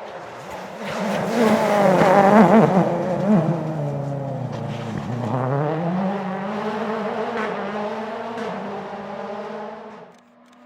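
Rally car engine passing at speed, loudest about two seconds in with the revs wavering. The revs fall to a low about five seconds in as the car slows, then climb again as it accelerates away and fades.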